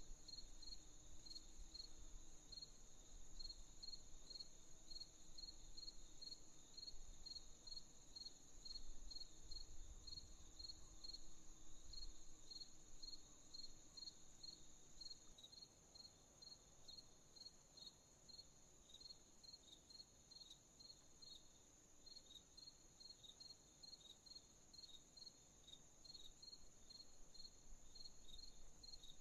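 Crickets chirping in a steady rhythm, about two chirps a second, over a continuous high insect trill.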